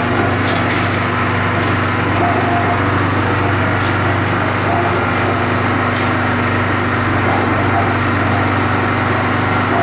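Small portable engine-driven generator running steadily under load, with the electric concrete mixer's drum turning alongside it.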